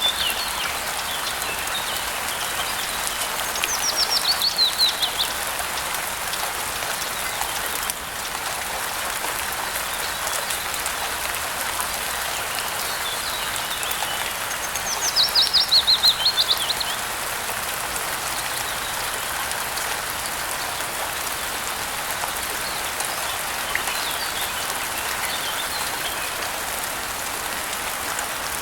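Steady rain falling, with a songbird singing two short, rapid phrases of notes that step down in pitch, about four seconds in and again about fifteen seconds in, and a few fainter chirps between.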